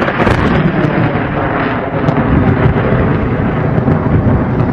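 Loud rumbling thunder with rain, with sharp crackles near the start.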